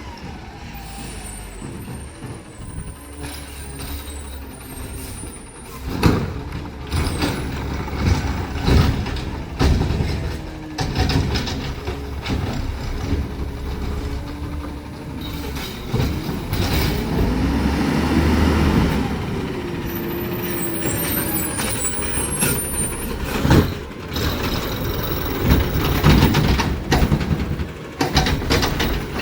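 Garbage truck working its route: the diesel engine runs and swells up and down, with air brakes hissing and several loud metallic bangs of the loading and packing gear.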